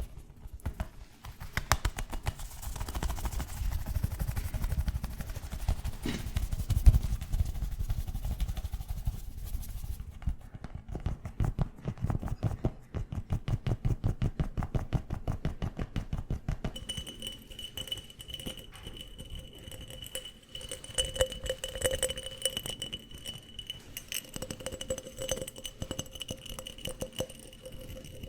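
Fast fingertip tapping and scratching on objects close to the microphone, a dense run of rapid clicks and scrapes. The sound changes about ten seconds in. From about seventeen seconds in, the tapped object rings with steady tones under the taps.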